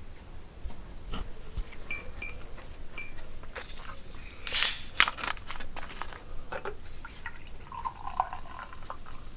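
Close wet eating and food-handling sounds: scattered clicks and squishes, with one louder noisy burst about four and a half seconds in.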